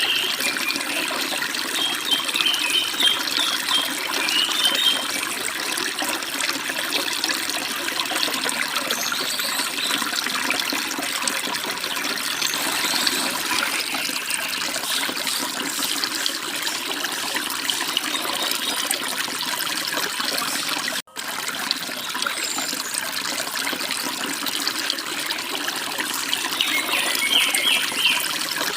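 Forest stream babbling and splashing steadily, with small birds chirping briefly in the first few seconds and again near the end. The water cuts out for an instant about two-thirds of the way through.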